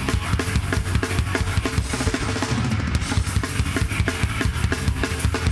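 Live heavy rock band playing an instrumental stretch without vocals, the drum kit to the fore with rapid kick drum and snare hits over steady bass and guitars.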